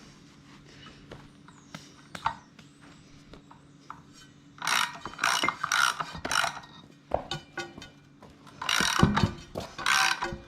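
Ratchet wrench worked in short back-and-forth strokes, each stroke a quick rasp of clicks, in two bursts of about three strokes separated by a pause, as nuts are run onto the seed drill's disc units. A few isolated clicks come earlier.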